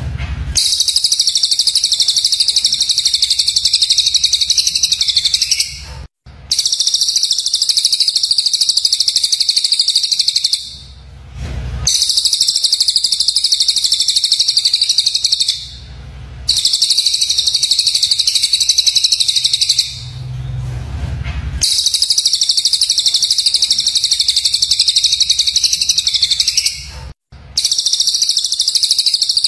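Recorded songbird calls played as a bird-training track: harsh, rapid, high-pitched chattering notes in runs of about five seconds, broken by short gaps.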